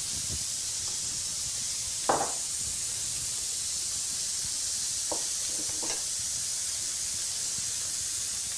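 Elk backstrap steaks and asparagus sizzling in hot frying pans, a steady hiss. A sharp clack about two seconds in and two lighter clicks a little past halfway, utensils knocking on the pans.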